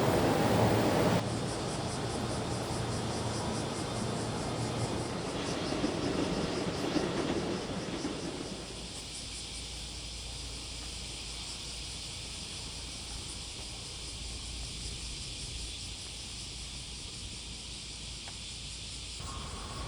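Steady hiss and low rumble of a train, stepping down to a quieter steady hum and hiss about eight seconds in.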